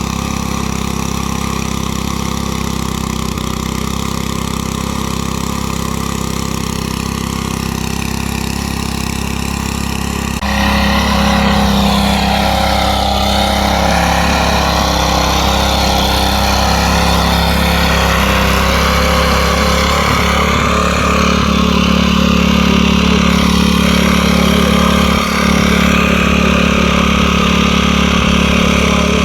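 Small gasoline engine of a garden tiller running steadily; about ten seconds in it becomes louder and rougher and stays that way.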